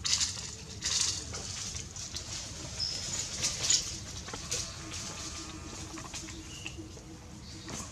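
A small animal squeaking in short, high cries amid scratchy rustling and clicks.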